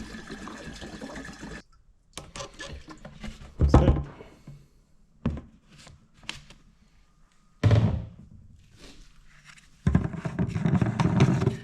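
Fuel pouring from a can into a quad bike's fuel tank, stopping suddenly about a second and a half in. It is followed by several separate thunks and knocks, the loudest about four and eight seconds in, with a longer rustling, clattering stretch near the end.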